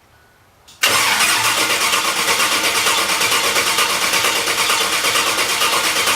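An engine being cranked by its starter motor, starting suddenly about a second in, with a fast, even pulsing and no catch. The engine fails to start, which the owner puts down to a possible lack of fuel, with the fuel pump perhaps not running.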